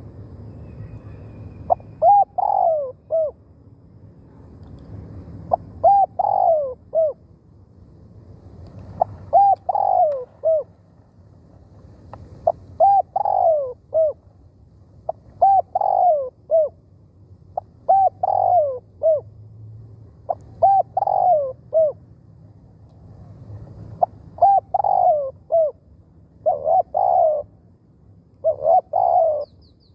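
Spotted dove cooing: a short phrase of three or four coos repeated about every three to four seconds, the phrases coming closer together near the end.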